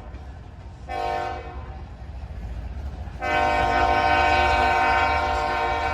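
Diesel locomotive air horn on a BNSF coal train: a short blast about a second in, then a long blast from about three seconds in to the end, over the steady low rumble of the moving train.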